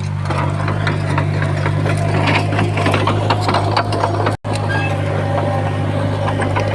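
Diesel engine of heavy earthmoving equipment running with a steady low drone, with rattling and clanking over it. The sound cuts out for an instant about four seconds in.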